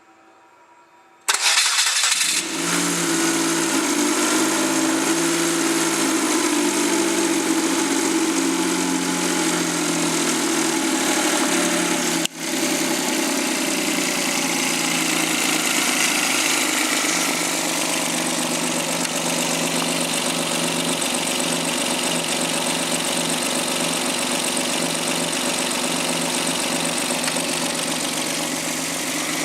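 Suzuki K6A 660 cc three-cylinder turbo engine from a JB23W Jimny starting about a second in, catching at once and running at a fast idle. The idle settles lower over the following seconds, with one momentary break around the middle.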